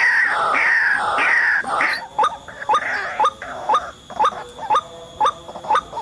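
White-breasted waterhen (ruak-ruak) calling: loud, falling cries repeated about every half second, then about two seconds in an abrupt change to short, rising notes repeated about twice a second.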